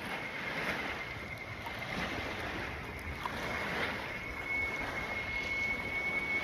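Lagoon shore ambience: a steady rush of wind and small waves on the water, with a thin, steady high-pitched tone throughout that grows a little stronger near the end.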